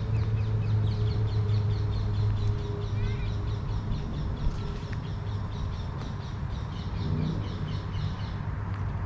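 A small songbird calling in a rapid series of short, high chirps, several a second, that stops shortly before the end. Under it a low steady hum fades after about two and a half seconds.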